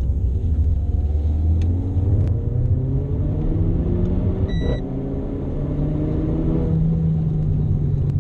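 Renault Clio RS's 1.6-litre turbocharged four-cylinder heard from inside the cabin, accelerating hard with the pitch climbing. About halfway through the revs drop at an upshift of the EDC dual-clutch gearbox, with a brief high tone, then climb again before easing off near the end.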